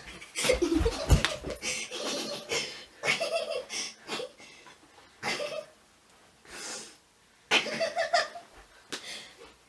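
Short bursts of a person's laughter and heavy breathing. There is a dull thump about a second in.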